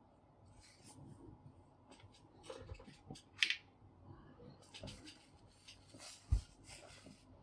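Hands working on a paper laminator's drive gears and housing: scattered small clicks, scrapes and rubbing of parts being handled, with a sharper scrape about three and a half seconds in and a low thump about six seconds in.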